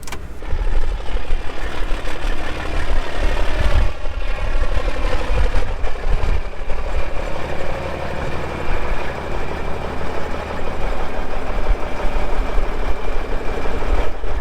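Vehicle engine running steadily as the vehicle drives, with a continuous rumble.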